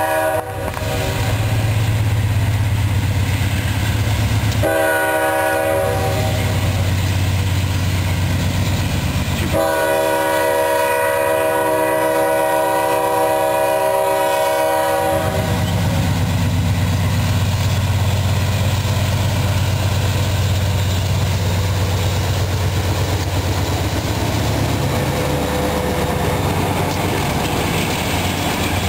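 Diesel locomotives of a CSX freight train pulling away from a stop, with a steady low engine drone. The lead locomotive's air horn sounds a short blast that ends just after the start, another about five seconds in, and a long blast of about five seconds starting about ten seconds in.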